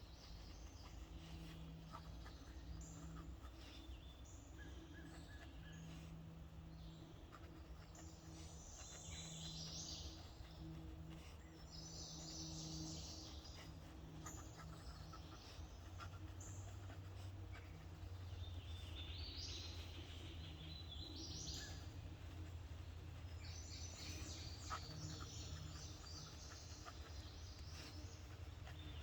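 Several birds singing and chirping in short phrases against faint outdoor background noise, with a steady low hum underneath.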